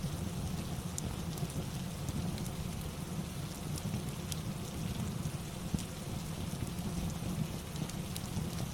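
Steady rain-ambience track with a deep low rumble under it, and a few sharp isolated crackles.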